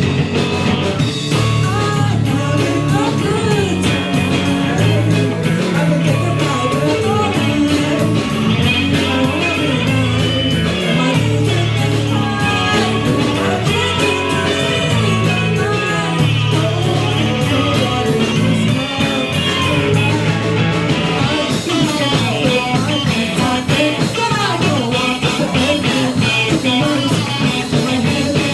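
Live rock band playing loud, with distorted electric guitar, bass and drums; the guitar is tuned to drop D.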